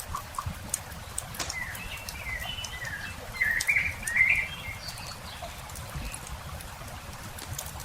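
Campfire crackling with scattered sharp pops, while a songbird sings a run of quick chirping phrases from about one and a half to four and a half seconds in, the loudest part. A steady low rumble sits underneath.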